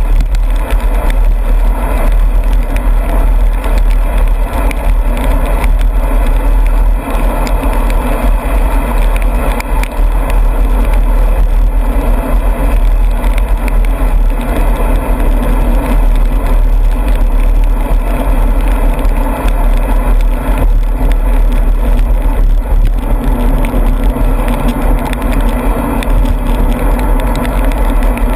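Steady on-board noise of a vehicle being ridden in the rain: a constant deep rumble with a hiss over it, unbroken throughout.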